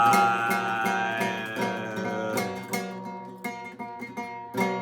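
Acoustic guitar being strummed between sung lines, growing quieter in the second half.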